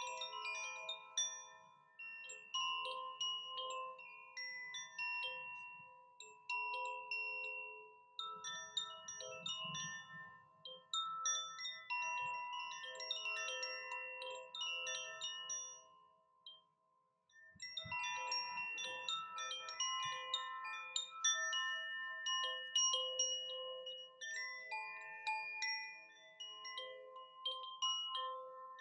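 Wind chimes ringing in random, overlapping struck notes of several pitches, each note ringing on. They fall away to a brief silence past the middle, then start again about eighteen seconds in.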